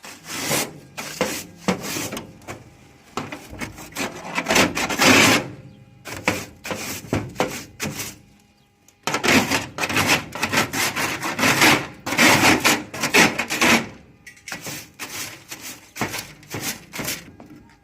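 Abrasive rubbing on a door surface under repair: fast back-and-forth scraping strokes in bouts of a few seconds, with short breaks and a longer pause about halfway through.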